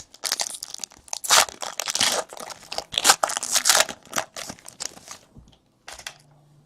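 Trading-card pack wrappers crinkling and tearing as packs are opened and cards handled: a busy run of rustling for about five seconds that thins out, with one last brief rustle near the end.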